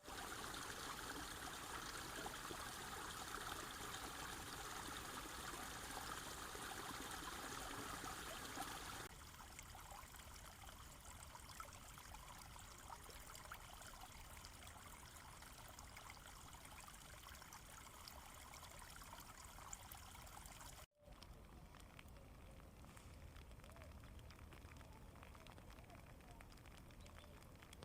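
Running water, a steady trickling rush. It is louder for about the first nine seconds, then drops to a quieter level, with a brief moment of silence about 21 seconds in.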